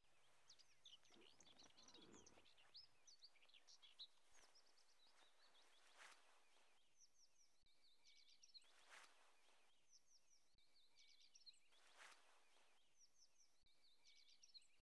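Very faint birdsong over near silence: small birds chirping in short repeated phrases.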